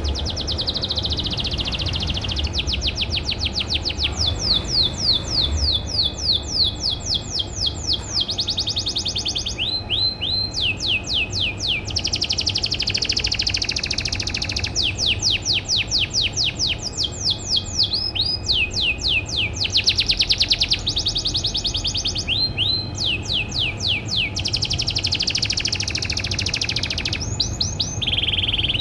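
Domestic canary singing continuously in rapid trills, each a run of quick falling notes repeated several times a second, switching to a new trill every second or two. A low steady rumble runs underneath.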